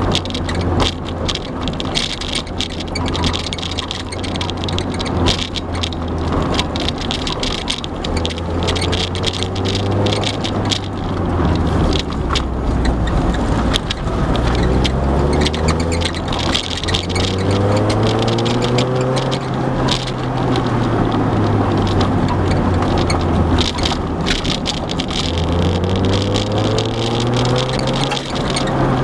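Mazda MX-5's four-cylinder engine heard from inside the car while driving, its note climbing under acceleration and dropping back several times, over steady road noise. Frequent short knocks and rattles run through it.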